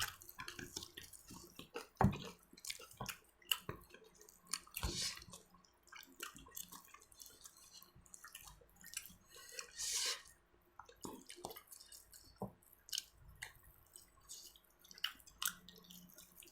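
Close-up eating sounds: scattered wet chewing and lip smacks with small clicks. A brief, louder rustling noise comes about ten seconds in.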